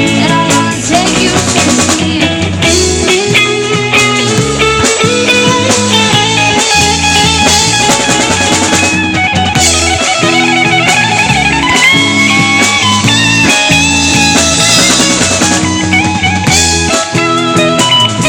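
Live band playing a rock song: guitars over a steady bass line and a drum kit, with a wavering lead melody.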